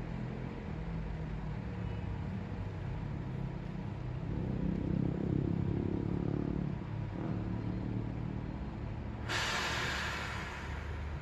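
City road traffic: a steady low rumble of passing cars, with one louder engine going by about halfway through. Near the end a sudden hiss sets in and fades out after a second or so.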